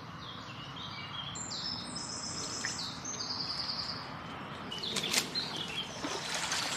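Songbirds singing in quick trilled high phrases over outdoor background noise, then a sudden sharp sound about five seconds in, the loudest moment, and a rising hiss near the end.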